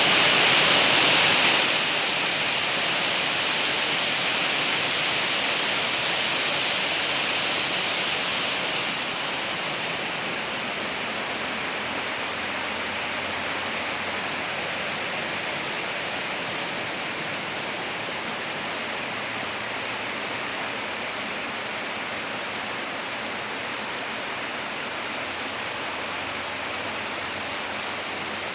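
Torrential rain pouring down in a steady hiss, loudest for the first second or two and easing a little about nine seconds in.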